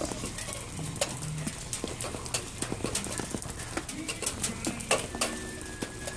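Rain falling, with many irregular sharp taps of drops landing close by.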